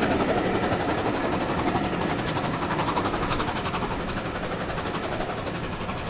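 Steam train running past and moving away, its sound fading steadily, with a quick, regular beat.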